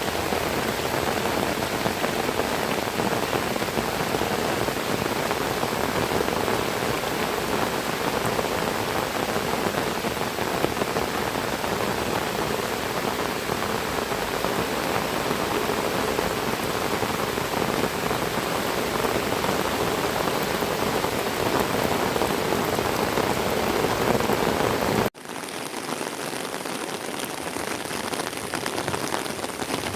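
Heavy rain falling in a steady hiss. About five seconds before the end it cuts off abruptly and goes on quieter.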